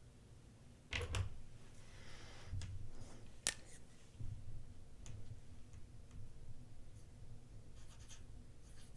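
Light handling sounds: a few sharp clicks, the loudest about a second in and another past three seconds, with short rustles and small ticks between them.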